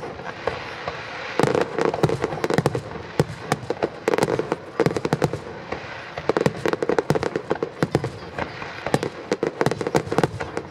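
Fireworks display: a dense run of bangs from bursting aerial shells mixed with crackle, quieter for the first second or so and then almost continuous.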